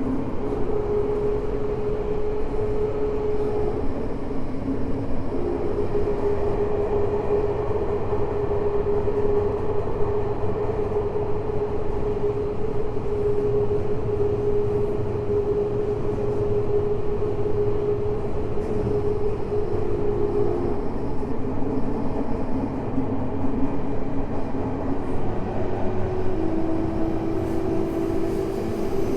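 Tokyo Metro 05 series subway train with Mitsubishi IGBT inverter, heard from inside the car while running between stations: a steady rumble of wheels on rail with a steady electric whine from the traction equipment, which shifts lower in pitch near the end.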